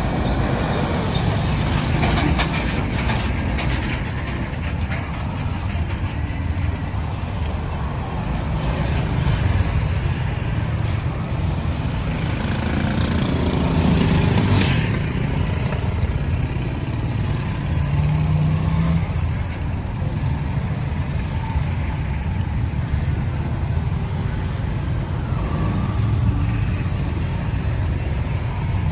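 Road traffic noise: engines and tyres rumbling steadily, with a vehicle passing close and loud about halfway through.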